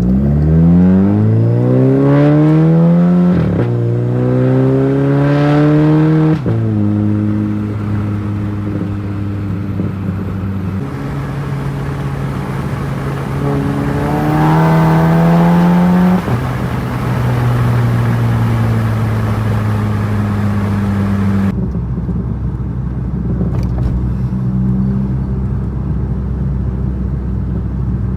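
Volkswagen GLI's turbocharged four-cylinder, running a Golf R IS38 turbo tuned to 28 psi, pulling hard with its pitch rising, shifting up about three and a half seconds in and again about six seconds in. It then cruises, makes one shorter pull that ends sharply about sixteen seconds in, and runs steadily at a lower pitch.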